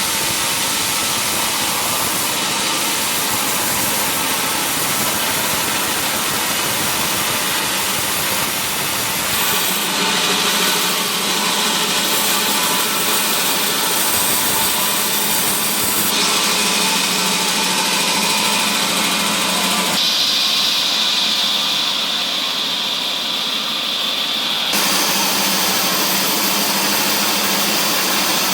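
Wood-cutting machinery running continuously while processing mahogany timber, a loud steady mechanical noise whose tone shifts abruptly a few times.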